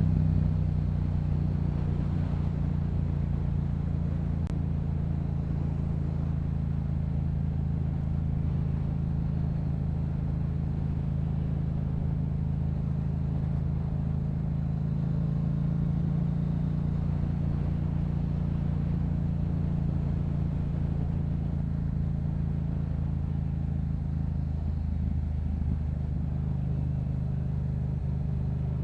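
Yamaha MT-07's 689 cc parallel-twin engine through a Yoshimura aftermarket exhaust, cruising at a steady engine speed. The note wavers briefly about 25 seconds in, then settles again.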